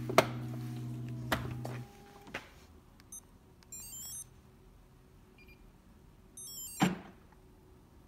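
Background music ends about two seconds in, among a few sharp clicks. Then come two short runs of high, stepped electronic beeps, the second with a thunk about seven seconds in.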